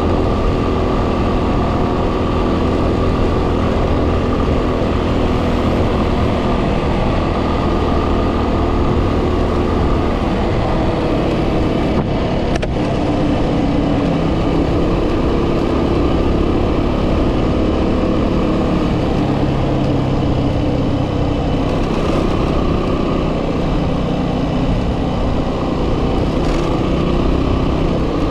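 2010 Yamaha WR250R's single-cylinder four-stroke engine running while riding, its pitch shifting a few times, under heavy wind buffeting on the microphone.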